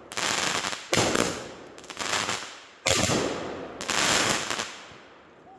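Consumer fireworks going off in quick succession: about five loud bangs roughly a second apart, each followed by a hissing crackle that fades out.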